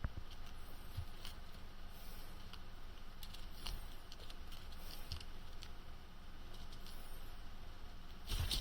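Guinea pigs chewing and crunching frozen cabbage leaves: scattered small crisp clicks and rustles, with a louder bump near the end.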